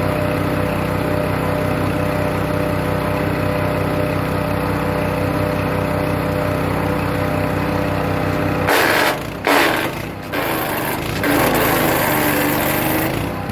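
Hecht 6208 wood chipper's petrol engine running steadily. About nine seconds in, the sound changes abruptly to a loud, harsh noise that stops and starts, typical of birch branches being chewed through the cutter.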